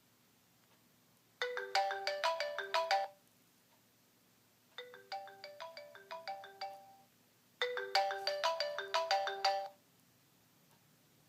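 An iPhone ringtone plays through the phone's speaker, a quick melodic run of short bright notes sounding three times with brief gaps between.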